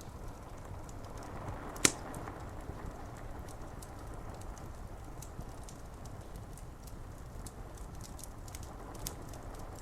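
Wood fire crackling with irregular sharp ticks and one loud pop about two seconds in, over a steady hiss of rain falling on window glass.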